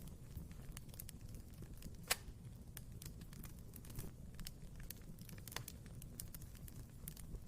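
Wood fire burning in a fireplace: a low steady rush of flame with irregular crackles and pops, one sharper pop about two seconds in.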